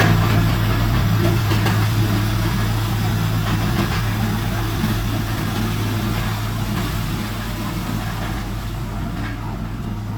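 Heavy diesel engine of earthmoving equipment running steadily with a low hum, easing off a little toward the end.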